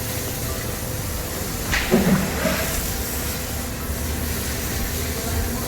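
Car wash machinery and water spray running with a loud, steady hiss, and a brief louder knock about two seconds in.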